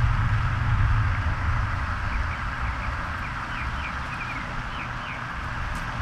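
Outdoor ambience: a low, steady rumble, with a bird calling a run of short, falling chirps from about two seconds in until about five seconds in.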